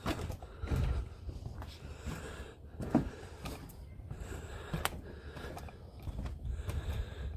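Footsteps on a wooden boardwalk: a few scattered, uneven knocks over a low rumble of wind on the microphone.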